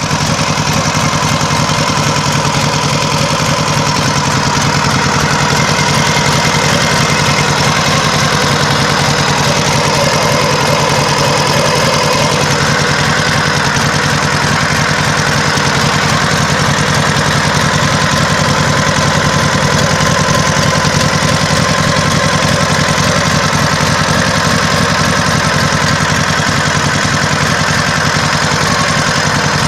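Dnepr motorcycle's flat-twin engine idling steadily on propane gas, fed through a single carburettor.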